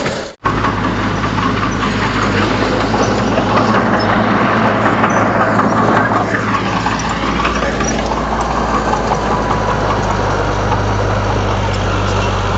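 Heavy diesel engine of earthmoving machinery running steadily, after a brief drop to silence just after the start.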